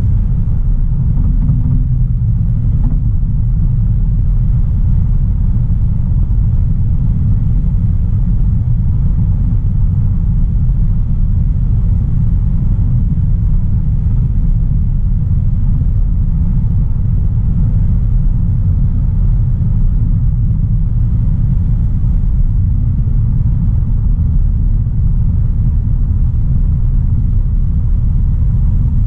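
A 2016 Audi A3 Sportback's 1.4 TFSI turbocharged four-cylinder petrol engine, with tyre and road noise, as the car drives along steadily. It makes an even, low rumble that does not rise or fall.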